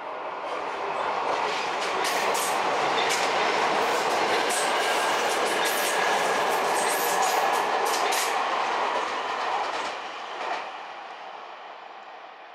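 Keio Inokashira Line 1000 series electric train passing. The running noise of wheels on rail builds over the first couple of seconds, carries a quick run of sharp clacks as the wheels cross rail joints, and fades away over the last few seconds.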